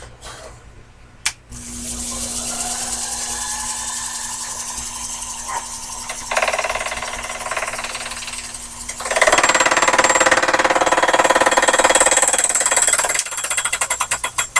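Sherline mini lathe switched on with a click about a second in, its motor running with a steady hum. It grows louder in steps, with a rapid rattle from about nine seconds in that eases shortly before the end.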